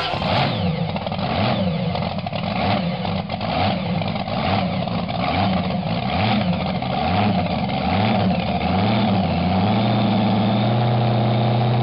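Supercharged Hemi V8 race engine being revved in a series of quick blips, each rising and falling, then settling to a steady idle about nine or ten seconds in.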